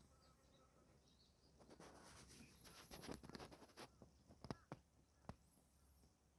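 Faint rustling and a series of sharp clicks, with a few faint high bird chirps.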